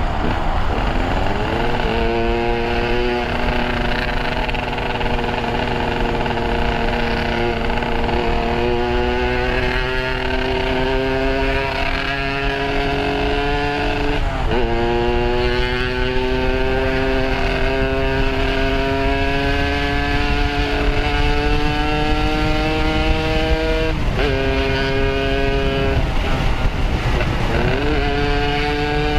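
Yamaha RX-King two-stroke single-cylinder motorcycle with a Boban C33 aftermarket exhaust being ridden. Its pitch climbs slowly as it pulls and breaks with quick dips, like gear changes, about halfway through and twice near the end, with a rushing noise underneath.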